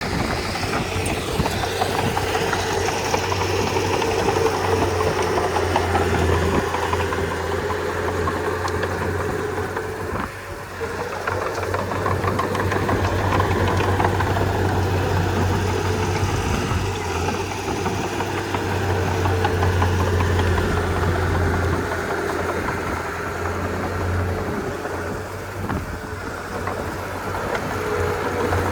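Komatsu D31P bulldozer's diesel engine running with a knocking clatter, its level rising and falling as it works, with a brief dip about ten seconds in.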